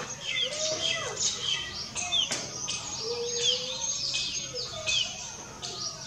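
Several birds chirping and calling at once, with a short falling note repeating about once a second.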